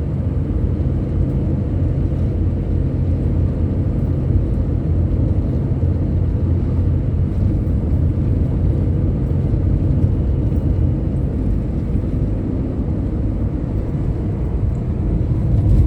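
Steady low rumble of vehicle engine and road noise on the move, with no sharp events or changes.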